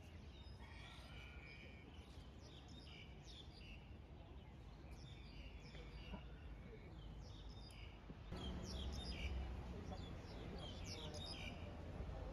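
Birds chirping: many short, high calls, busier in the second half, over a low steady outdoor rumble.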